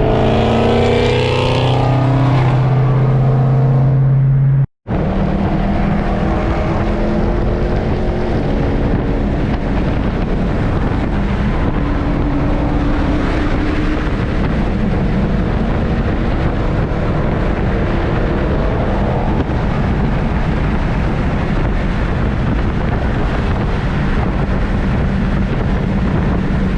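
Dodge Hemi V8 engine pulling hard, its pitch rising over the first couple of seconds. The sound cuts out for a moment about five seconds in, then comes back as a steady drone of engine, tyre and wind noise at speed.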